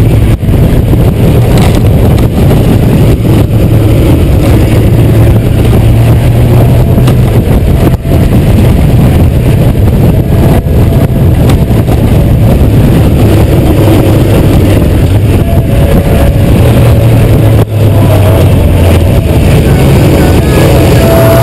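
Honda GoldWing 1500's flat-six engine running steadily on a downhill ride, its low drone drifting a little in pitch. Heard from an onboard camera, with a loud rush of wind noise on the microphone.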